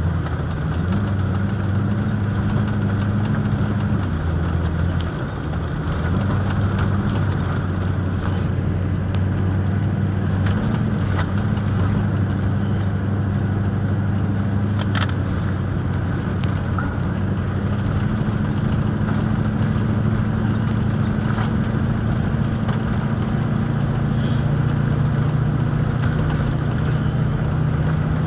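Vehicle engine running steadily, briefly lower about five seconds in and a little higher in pitch near the end, with a few faint clicks over it.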